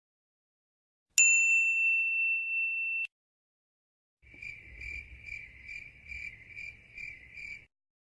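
A single bright ding that rings on one steady tone for about two seconds and stops abruptly. After a pause comes a cricket chirping in an even pulse, about two to three chirps a second for about three seconds: the familiar 'crickets' sound effect.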